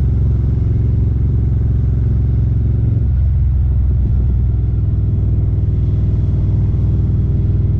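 Harley-Davidson Street Glide CVO's Milwaukee-Eight 117 V-twin, fitted with Khrome Werks Aggressor headers, slip-on mufflers and an S&S 475 cam, running steadily with a deep exhaust note.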